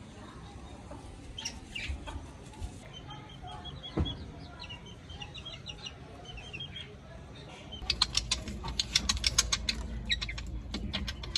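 Small birds chirping in quick runs of short, high notes, followed about two-thirds of the way through by a louder stretch of rapid sharp clicks and flutters, like wings flapping against an enclosure.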